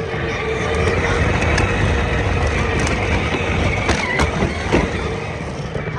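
Moving vehicle heard from on board: a steady rumble and rushing noise with a faint steady whine, and a few sharp knocks about four to five seconds in.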